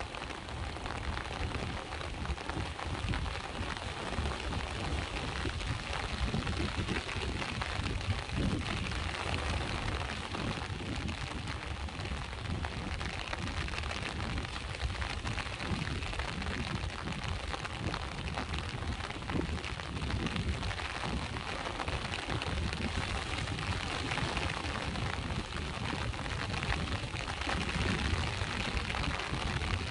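Steady rain falling, with a low, churning rumble of sea waves beneath it.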